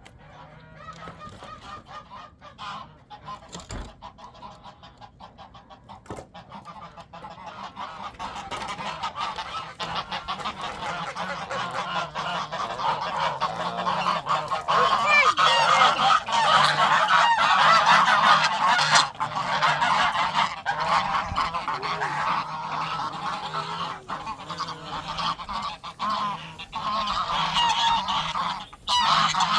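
Many birds calling at once in a continuous, overlapping chatter that builds in loudness over the first half and then stays loud.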